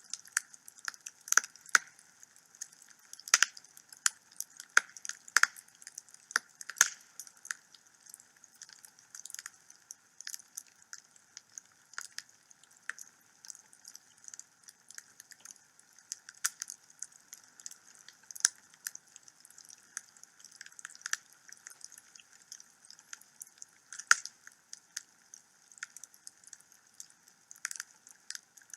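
Wood fire crackling in a fireplace: irregular sharp pops and snaps, a handful much louder than the rest, over a faint steady hiss.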